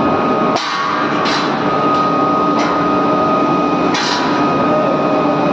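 Loud, steady industrial din of a steel melting shop furnace area, with a constant hum and sharp metallic clanks about four times.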